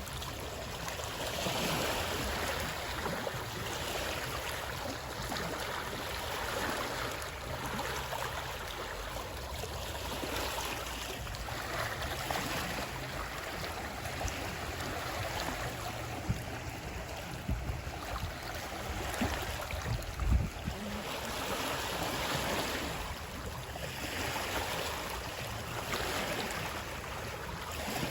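Water rushing and splashing steadily, swelling and easing every few seconds. A few low thuds come in the second half, the loudest about two-thirds of the way through.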